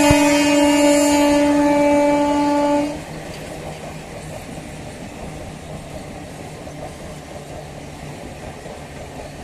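Electric multiple unit local train's horn sounding one long, steady blast for about three seconds, then cutting off, leaving the steady rumble of the train running.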